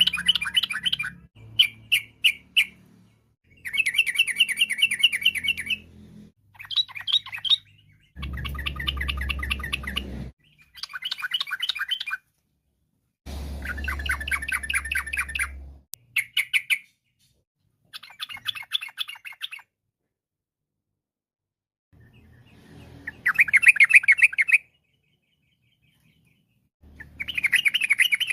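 Yellow-vented bulbul singing in repeated bursts of rapid, bubbling chatter, each burst lasting one to two seconds. The bursts are broken by short pauses, with a longer gap about two-thirds of the way through.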